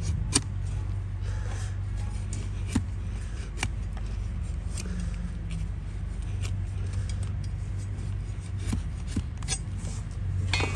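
Donkey hoof being trimmed: scattered sharp clicks and short scrapes of the trimming blade on hoof horn, over a steady low hum.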